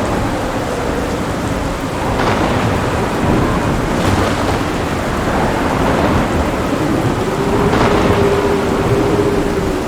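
Thunderstorm: steady heavy rain with thunder rumbling through it, and brief sharper cracks about two, four and eight seconds in.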